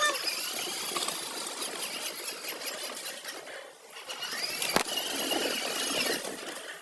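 Small electric motor and gearbox of a child's battery-powered ride-on toy car whirring as it drives, with a sharp click about five seconds in.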